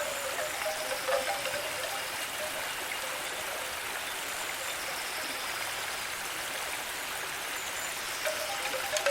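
Steady hiss of flowing water, like a stream. Soft wind-chime notes sound briefly about a second in and come back near the end.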